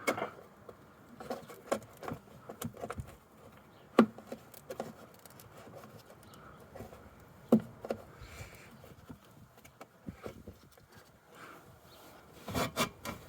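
Scattered light clicks and knocks of plastic parts being handled and fitted while refitting a car's windscreen washer pump and filter, with two sharper knocks, one about four seconds in and one past the middle.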